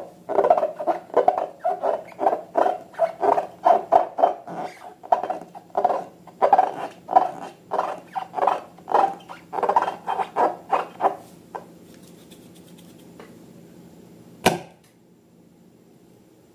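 Slime being squeezed and kneaded by hand: a run of short wet squelches, about two a second, that stops about eleven seconds in, followed by a single sharp click a few seconds later.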